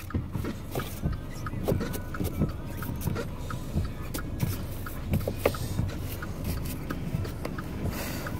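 Car driving on a snow-covered road, heard from inside the cabin: a steady low rumble of engine and tyres, with a light ticking recurring a few times a second.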